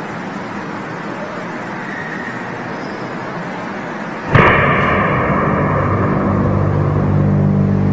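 Steady background noise, then about four seconds in a sudden loud sound of several held tones sets in and keeps going, high tones at first and deep droning ones after: one of the reported unexplained 'strange sounds' in the sky.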